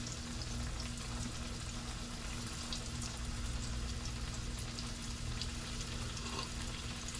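Shark frying in oil in a cast-iron skillet: a steady sizzle with scattered small crackles, over a low steady hum.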